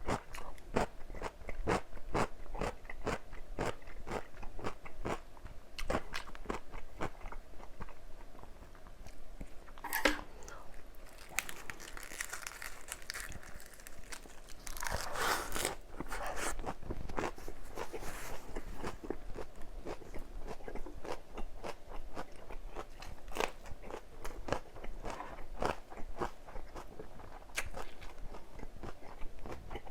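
Close-miked ASMR eating: a person chewing big wrapped bites of bulgogi in crisp ssam vegetables, with many quick wet crunches in a steady run. About ten seconds in comes a louder stretch of crackling and crunching that lasts several seconds.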